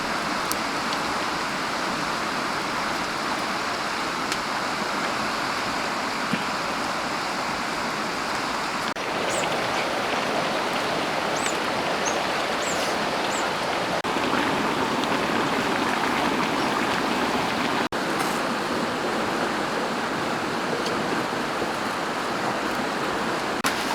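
Steady rushing of running stream water, with a few faint high chirps about a third of the way in.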